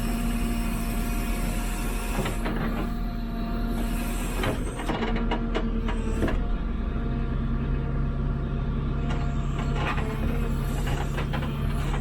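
JCB 3CX backhoe loader's diesel engine running steadily under digging load, its note changing a little past halfway, with several sharp knocks scattered through.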